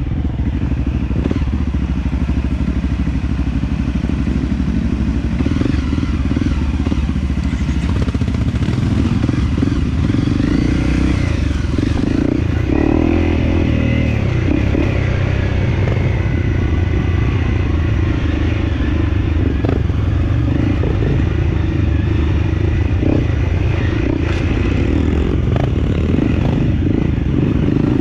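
Off-road motorcycle engine running steadily under way on a rough dirt trail, with a few short knocks from the ride.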